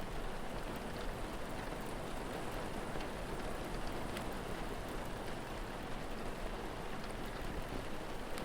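Steady rainfall, an even hiss, with a few faint sharp ticks now and then.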